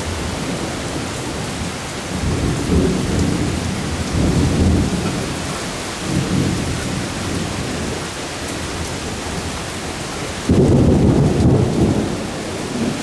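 Heavy thunderstorm rain pouring steadily with rolling thunder: low rumbles about two to five seconds in and again around six seconds, then a louder peal that starts suddenly at about ten and a half seconds.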